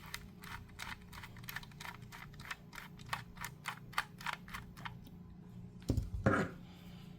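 Steady run of small, sharp clicks, about three a second, as a screw is backed out of the lock housing with a screwdriver. A louder handling thump comes about six seconds in.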